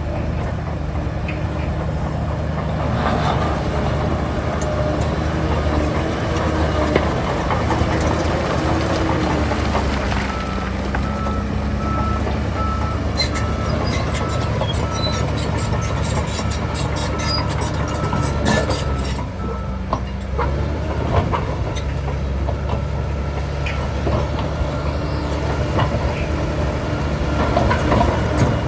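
Diesel engines of heavy earthmoving machinery running steadily. In the middle a reversing alarm beeps repeatedly for several seconds, along with a stretch of metallic clattering.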